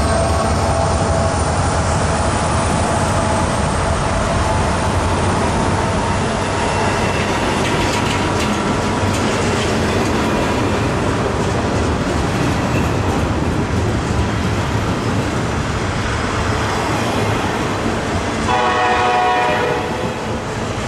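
A train running past with a steady, loud rumble of wheels on rail, and one horn blast of about a second and a half near the end.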